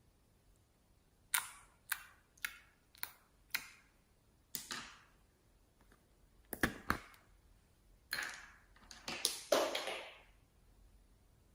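Slime being handled and pressed, giving about a dozen sharp pops and clicks at uneven intervals, each fading quickly, with the last few coming close together.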